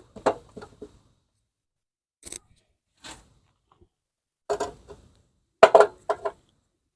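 Hand tools clicking and tapping on metal while a fuel line is worked off a small Briggs & Stratton lawnmower engine's carburetor. The clicks come in short scattered groups, with the loudest quick run near the end.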